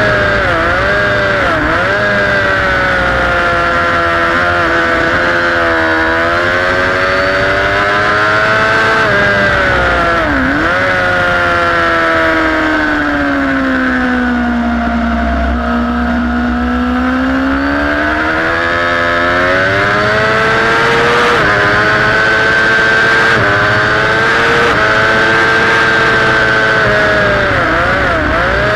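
Sport motorcycle engine at high revs, heard from on board with wind rush. The revs fall steadily into a slow corner around the middle and climb again on the way out, with brief dips in pitch at the gear changes.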